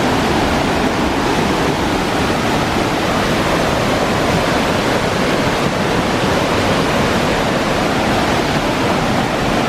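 Loud, steady rush of the Banias Waterfall's falling water, with no breaks.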